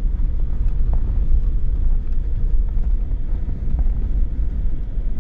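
Car driving along a road: a steady low rumble of engine and road noise, with a few faint ticks.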